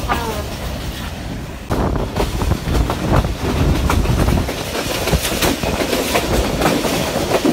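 Rehman Baba Express passenger coaches running on the track, heard from an open window: a steady rumble with the wheels clicking and knocking over the rail joints. It gets louder about two seconds in.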